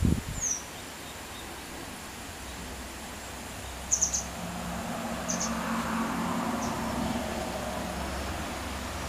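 A small bird chirping a few times, high-pitched: one short falling chirp just after the start, a quick cluster of chirps about four seconds in, then two more single chirps. A low rumble swells under it in the middle.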